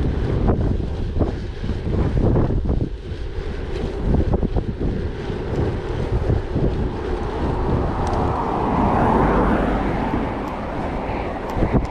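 Wind buffeting the microphone of a moving gravel bike, with the tyres rumbling over gravel and scattered sharp knocks from bumps. A smoother rushing hiss swells about eight seconds in and eases near the end.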